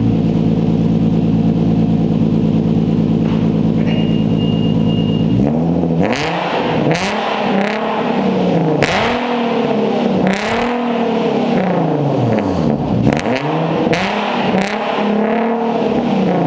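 Infiniti Q50's 3.7L VQ37VHR V6 running through a custom 3-inch stainless single-exit exhaust with a Vibrant resonator and 1060 muffler. It idles steadily, then from about five seconds in it is blipped repeatedly, the revs rising and falling, with a few sharp cracks.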